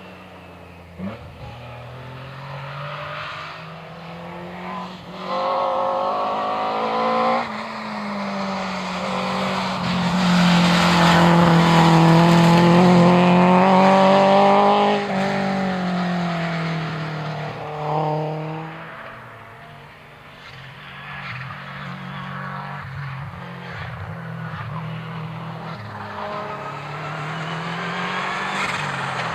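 Historic rally car engine revving hard and changing up through the gears as the car approaches. It is loudest about halfway through, then the revs drop and the sound fades away, and another engine builds near the end.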